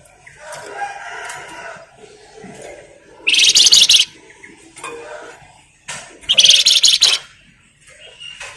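Flamboyan songbird singing: two loud, rapid chattering trills, each nearly a second long, about three and six seconds in, with softer chirps between.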